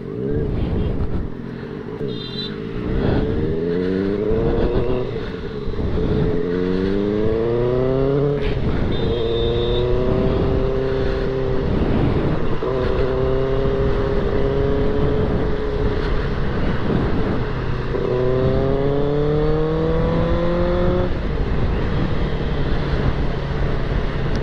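Benelli 600 TNT inline-four engine accelerating on the highway: the revs climb and drop back with each gear change a few times, with stretches of steady cruising in between.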